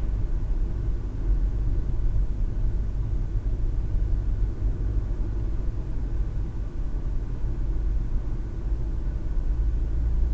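Car driving along a road: steady engine and tyre rumble heard from inside the cabin.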